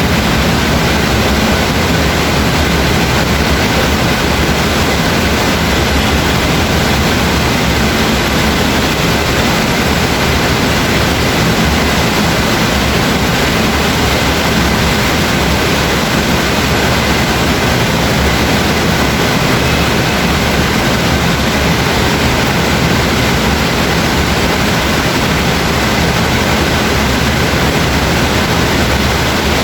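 Steady, loud rainfall with no breaks and no thunder claps.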